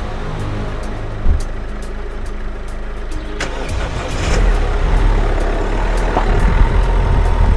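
A Citroën car's engine is started with the key about four seconds in and keeps running with a low rumble, after a single thump near the start, such as the car door shutting. Music with a steady ticking beat plays underneath.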